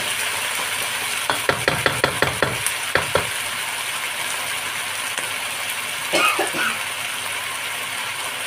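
Chicken wings sizzling steadily in a wok. About a second in, a wooden spatula knocks against the pan in a quick run of about eight taps, then twice more.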